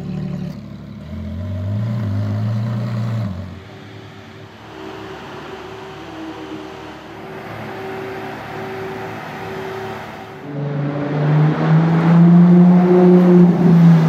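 Ferrari LaFerrari's V12 engine running: a short rev about a second in, then a quieter steady stretch, then revved hard about ten seconds in and held at high revs.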